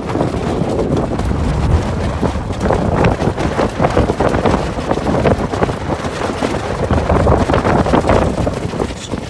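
Strong wind buffeting the microphone aboard a sailboat, with a dense, irregular patter of small knocks and slaps.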